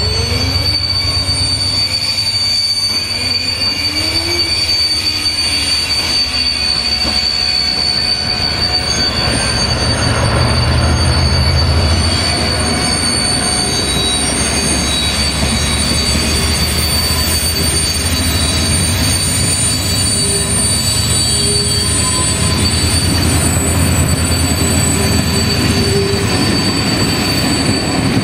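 Class 68 diesel locomotive passing close at low speed, its V16 engine running with a deep drone that is loudest about ten to twelve seconds in. The coaches then roll by on a curve, with a steady high-pitched wheel squeal.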